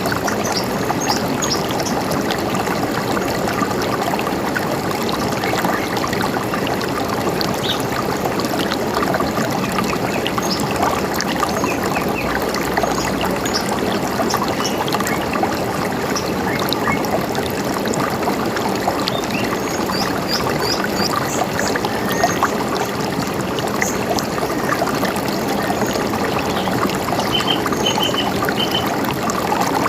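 River water running steadily, with birds chirping over it: scattered short high calls, and quick runs of a few notes about twenty seconds in and near the end.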